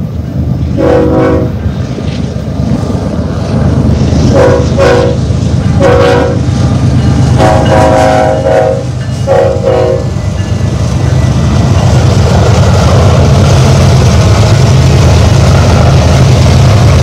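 BNSF diesel freight locomotives sounding their air horn in a series of blasts, the longest about eight seconds in, over the steady low rumble of the engines. After the horn stops about ten seconds in, the intermodal cars roll past with a continuous rumble and wheel-on-rail clatter.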